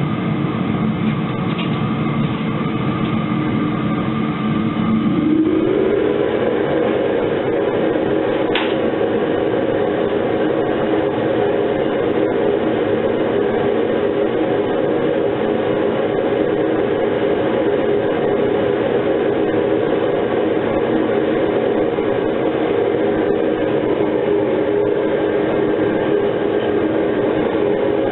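Metal-melting furnace's burner running steadily with a loud rumble; about five seconds in its note rises and then holds steady.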